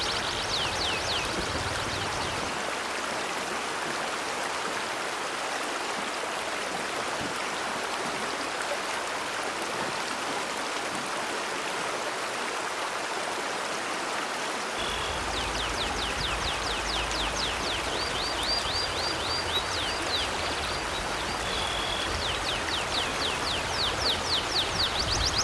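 River water flowing steadily, with a bird singing rapid trills of short falling notes near the start and again through the second half, mixed with a few brief whistled notes.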